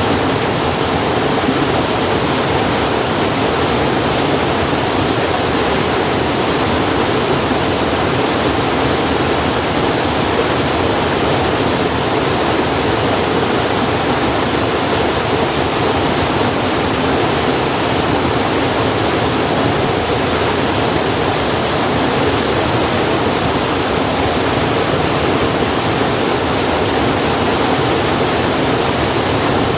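Steady, loud rushing noise of flowing water, unchanging throughout, with no fire crackles standing out.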